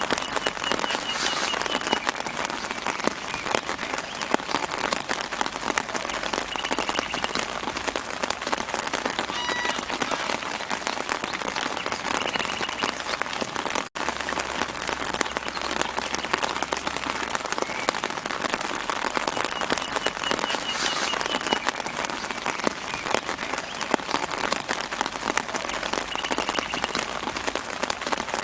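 Steady light rain falling on leaves, a dense even hiss of fine drops, with faint short bird chirps now and then in the background. The sound cuts out for an instant about halfway through.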